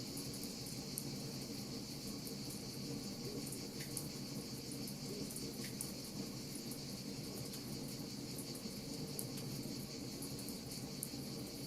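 Wood fire crackling with frequent small, sharp pops over a steady high chirring, like crickets, and a low steady hum.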